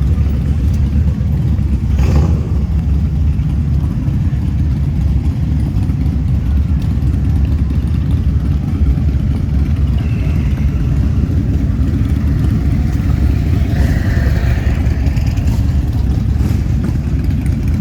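Motorcycle engine running steadily with a heavy low rumble.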